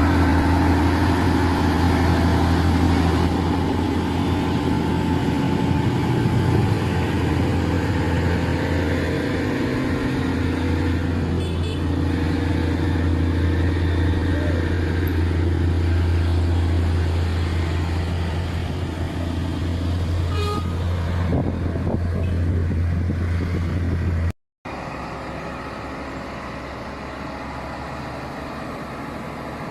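Heavy truck engine running with a steady low hum on a steep climb, with road traffic noise. The sound cuts out for a moment near the end and comes back quieter.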